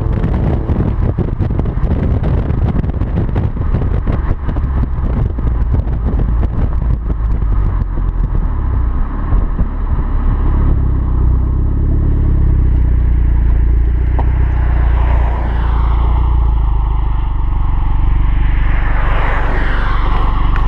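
Hyundai Genesis with a Tsudo aftermarket exhaust running. For the first half, rapid flapping and clatter lie over the exhaust note; about halfway in it settles into a steady deep drone.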